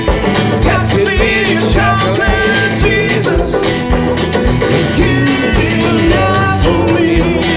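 Instrumental blues-folk passage: a banjo playing over a foot drum that keeps a steady beat of about two thumps a second.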